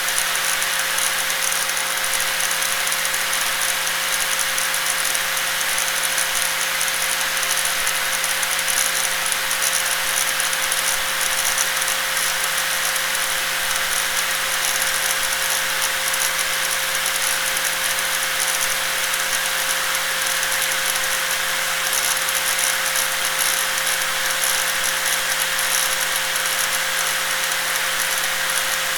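Electric angle grinder running continuously at a steady speed: an even, hissing, rattly noise with a constant hum held underneath.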